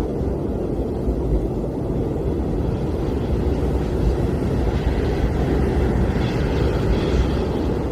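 Blizzard wind blowing steadily, a dense low rushing noise with no gusts standing out, and a faint higher whistle about six to seven seconds in.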